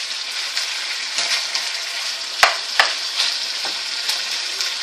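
Onion and food frying in hot olive oil in a wok, a steady sizzle, with a utensil knocking sharply against the wok twice about halfway through as it is stirred.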